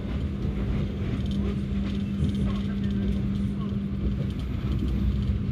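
Passenger train running along the track: a steady low rumble with a constant hum and occasional light knocks.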